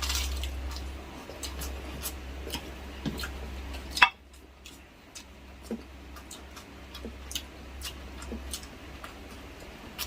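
Eating sounds: scattered small clicks and mouth smacks from chewing, with one sharper click about four seconds in, over a steady low hum.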